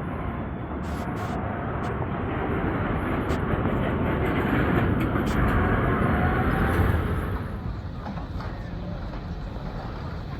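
A tram passing close by on a city street: its rolling rumble builds to a peak about five to seven seconds in, then drops away.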